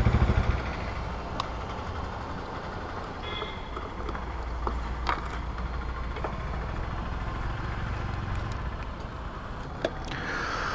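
A Bajaj Dominar 250's single-cylinder engine idling, switched off about half a second in. After that comes a steady low hum with scattered clicks and knocks while the motorcycle's tank is filled at a petrol pump.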